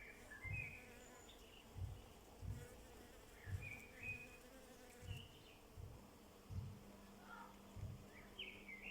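A flying insect buzzing close by with a steady low hum, while small birds chirp in short notes. Soft low thumps come about once a second.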